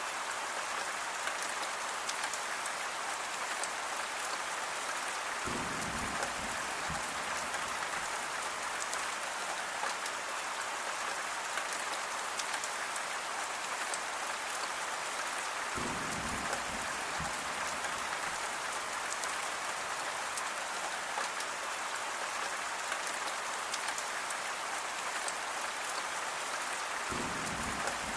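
Steady rain falling, an even hiss of drops with fine pattering ticks. A brief low rumble comes in three times, about ten seconds apart.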